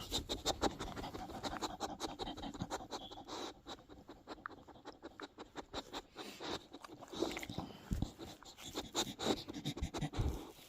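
Pit bull puppy panting, with many irregular scratchy clicks and scuffles.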